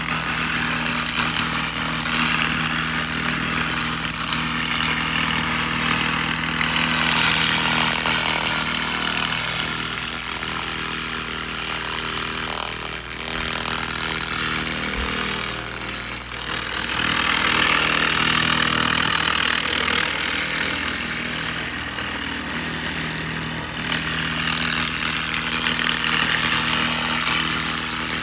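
SFX 2000 W laser rust remover blasting rust off metal: a loud hiss that swells and eases off twice, over a steady low machine hum.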